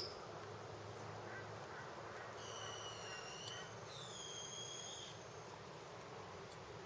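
Steady outdoor background hiss, with two drawn-out high whistles in the middle, the first falling slightly.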